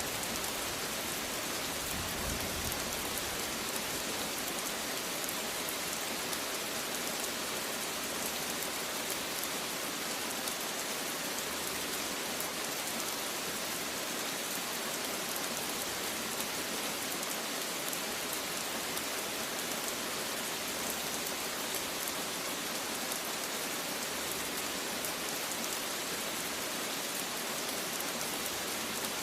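Steady rain falling on a surface, an even hiss of many drops with no thunder or other events.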